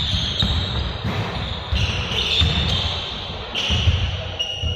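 Basketballs bouncing repeatedly on a hard court floor, with high-pitched squeaks coming and going over the thuds.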